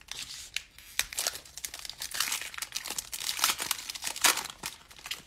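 Foil wrapper of a trading-card pack being torn open and crinkled by hand, a run of irregular crackling and tearing.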